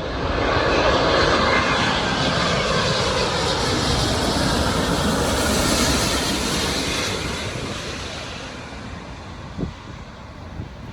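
Jet airliner passing close by: loud, steady engine noise that holds for several seconds, then gradually fades away. A short knock comes near the end.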